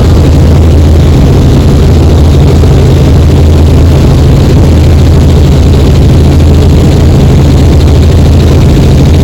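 Helicopter engine and rotor running steadily, loud, with a deep constant drone.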